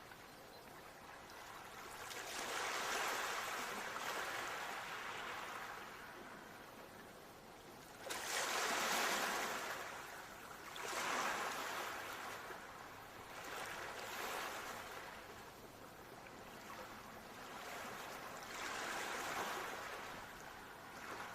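Ocean waves breaking and washing in, rising and falling in swells every few seconds, the loudest surging in suddenly about eight seconds in.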